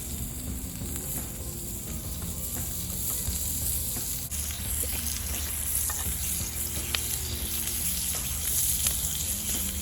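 Food frying over a campfire, with a steady sizzle and a few faint ticks.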